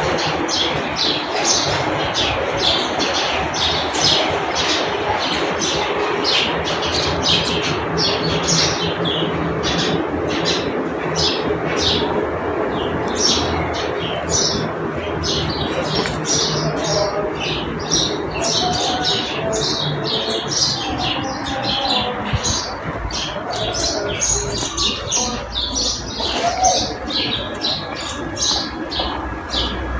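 Many small birds chirping in quick, overlapping short notes throughout, over a steady low background rush.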